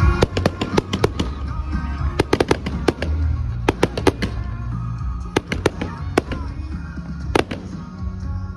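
Fireworks going off in a quick, irregular series of sharp bangs and crackles, several in a second at times, with music playing underneath.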